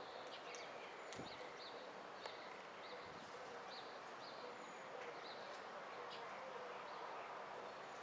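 Faint, high, short bird chirps repeating irregularly, about once or twice a second, over a steady outdoor hiss, with a single click about a second in.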